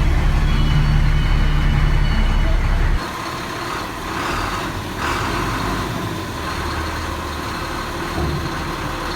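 Dongfeng dump truck's diesel engine running as the tipper body is being lowered: a deep, loud drone that drops away suddenly about three seconds in, leaving a lighter, quieter running noise.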